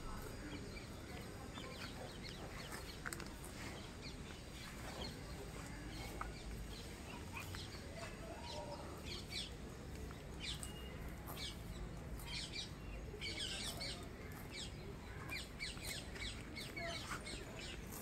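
Birds chirping in quick, short calls, more often in the second half, over a steady low outdoor background hum.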